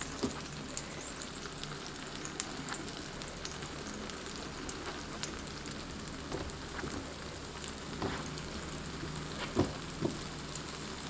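Glutinous rice cakes sizzling steadily in shallow oil on an electric griddle pan, with scattered small pops. Soft knocks come as a silicone spatula turns the cakes over, a few louder ones in the last few seconds.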